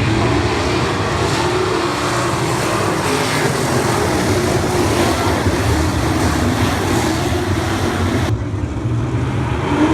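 Dirt track race car engines running loud, their pitch wavering up and down as they rev, over a steady roar.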